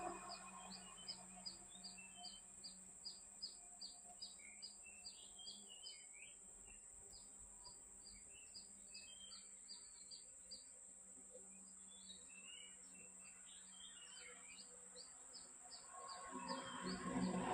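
Faint birdsong: a small bird repeats a short, high, falling chirp about three times a second, pausing briefly twice, while other birds call now and then. A steady high-pitched whine runs underneath.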